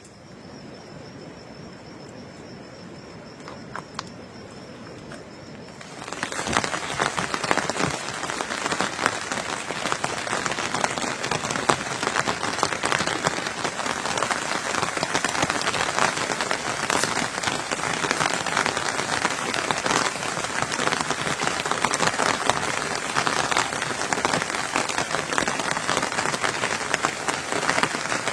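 Heavy rain falling, a dense steady patter that starts abruptly about six seconds in. Before it comes a quieter background with a thin, steady high-pitched whine.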